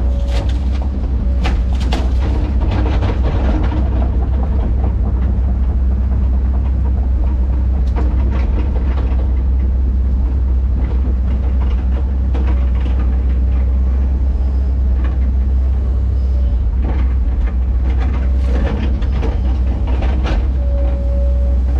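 Diesel engine of a heavy earthmoving machine running steadily under load, a loud low hum, with scattered metal clanks and knocks from the machine's tracks and bucket as it works the dirt.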